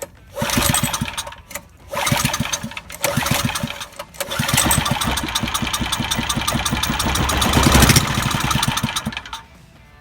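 Small single-cylinder pressure-washer engine, carburettor removed, running on brake cleaner fed into the intake. It fires in three short bursts, then runs steadily for about five seconds and cuts out suddenly near the end.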